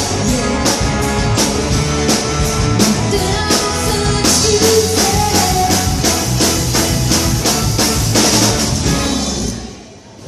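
A band playing rock music with a drum kit keeping a steady beat; the song ends about nine and a half seconds in and dies away.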